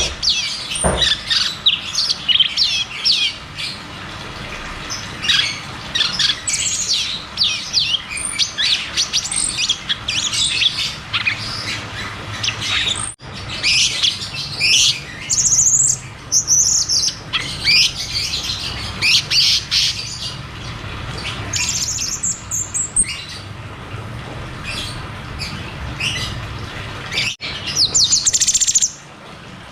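Cucak cungkok songbird singing a fast, continuous run of chirps and quick high whistles, broken now and then by sharp high-pitched trills, the rolling, 'shooting' song used as a master recording to prompt silent birds to sing.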